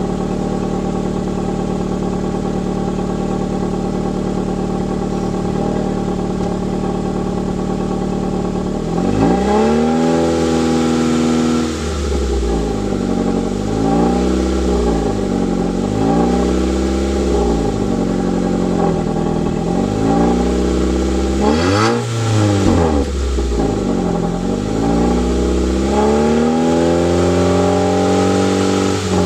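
2004 Nissan Sentra's 1.8-litre four-cylinder (QG18DE) engine idling steadily for about nine seconds, then revved up and let fall back several times in a row, about six rev-ups.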